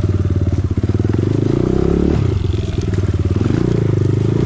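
Dirt bike engine revving under load, its pitch climbing about a second in, dropping off just after two seconds, then rising again near the end.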